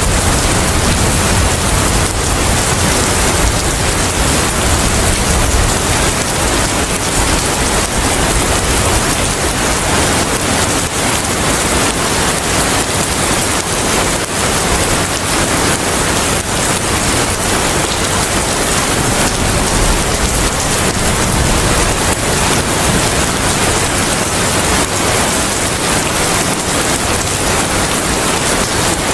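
Steady rain and wind: a dense, even hiss across the whole range, with a low rumble dying away in the first second.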